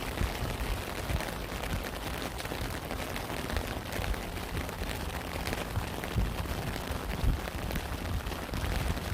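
Rain falling steadily, a dense patter of separate drops hitting a surface, with irregular heavier low thuds mixed in.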